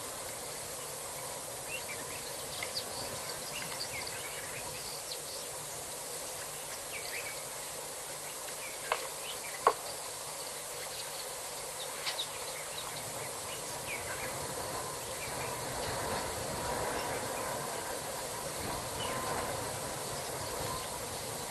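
African elephants' ivory tusks knocking together: two sharp clacks about nine seconds in, the second louder, and a fainter double clack about three seconds later. Under them, a steady hiss of insects with faint chirps.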